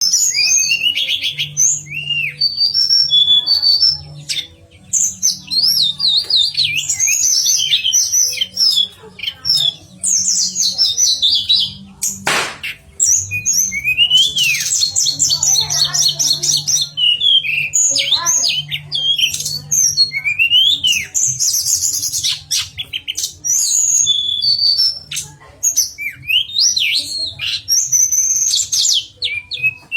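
Tledekan songbird singing a long, fast, varied song of chirps, rapid trills and sweeping whistles. A sharp click comes about twelve seconds in.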